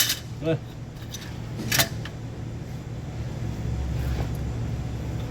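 Two sharp metallic clicks, at the start and just under two seconds in, from hand work on the engine, over a steady low hum that grows stronger near the end.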